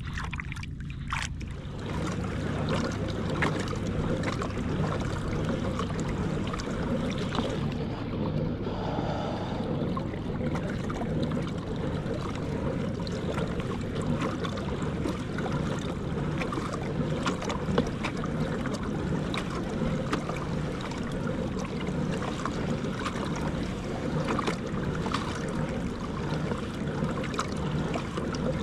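Kayak moving over open water: a steady low hum sets in about two seconds in and runs on under a constant wash of water noise.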